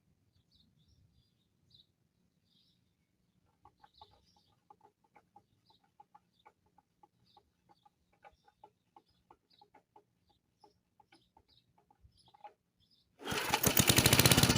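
Faint short bird calls and chirps, then near the end the 1972 Briggs & Stratton single-cylinder engine of a vintage mower comes in loud, running with an even firing beat.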